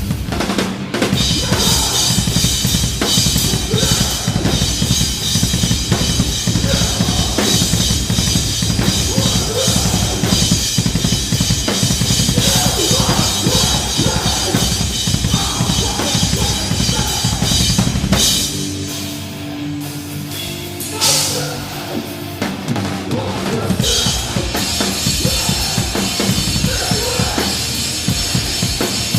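Live heavy hardcore band playing loud, with pounding drums, bass drum and steady cymbal wash under the guitars. About two-thirds of the way in the drums and low end drop out, leaving a few held notes for several seconds, then the cymbals and full band crash back in.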